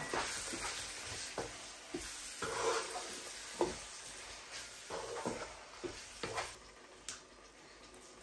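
Chicken and spices sizzling in oil in a wok while a wooden spatula stirs them, knocking and scraping against the pan about once a second. The sizzling fades near the end.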